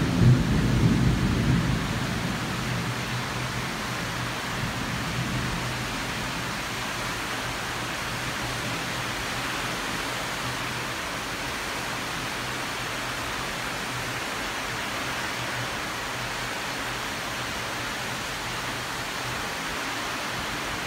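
Heavy tropical downpour, a steady hiss of rain. A low rumble of thunder dies away over the first couple of seconds.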